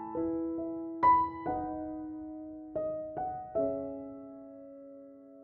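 Background piano music: slow, soft notes struck a few at a time and left to ring and fade.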